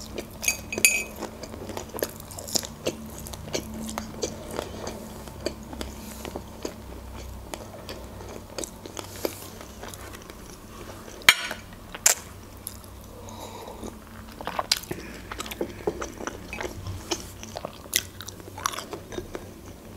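Close-miked chewing and biting of pan-fried pelmeni: many small wet mouth clicks with a few sharper crisp bites, two of them about 11 and 12 seconds in, over a low steady hum.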